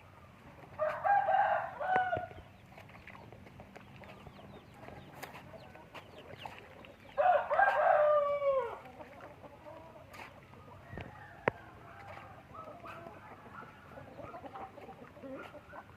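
Rooster crowing twice, about six seconds apart, the second crow ending in a falling note. Softer clucking follows near the end.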